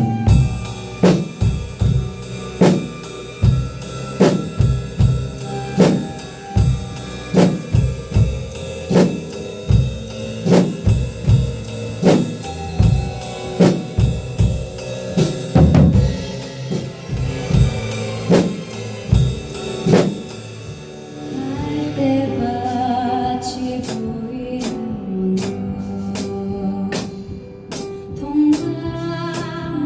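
Drum kit played along to a backing track, with bass drum and snare hits on a steady beat. About 21 seconds in the pattern changes to quicker, lighter hits over the backing track.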